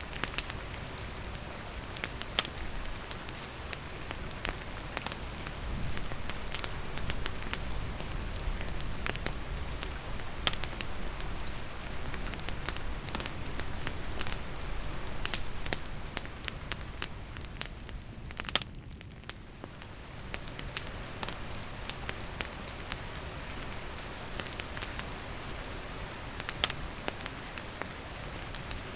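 Steady rain falling, mixed with a wood fire crackling, with many scattered sharp pops and ticks. The rain noise thins briefly about two-thirds of the way through.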